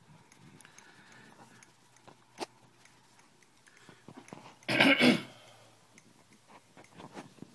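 Faint, irregular clicking from a 17-inch MacBook Pro, picked up near the left side where its hard drive sits, with one sharper click about two and a half seconds in. A short loud noise cuts in about five seconds in.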